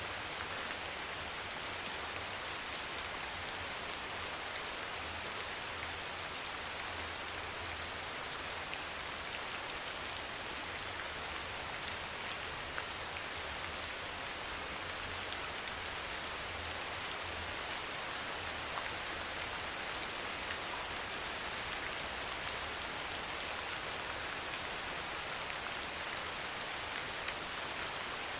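Steady rain falling on a surface, with scattered individual drops ticking over an even hiss and a low rumble underneath.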